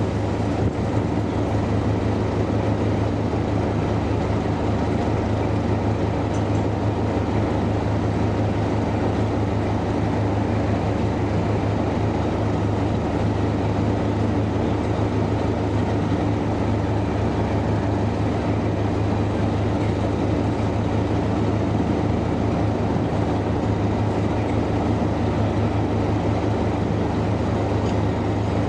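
Diesel locomotive running steadily, a constant deep engine drone with an even rumble over it and no rise or fall.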